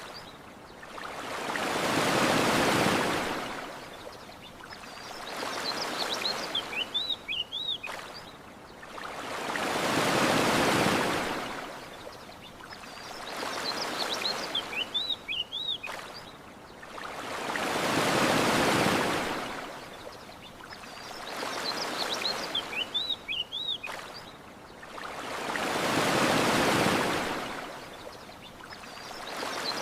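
Ocean waves washing onto a shore, a big swell about every eight seconds with a smaller one between. A bird chirps briefly in each lull, and the whole pattern repeats as a loop.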